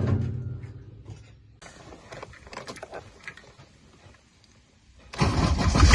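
Mercedes-Benz W123's OM617 five-cylinder diesel engine starting about five seconds in and running loudly and steadily, fired up after its oil and filter change. Before that there are only faint knocks and a fading low hum.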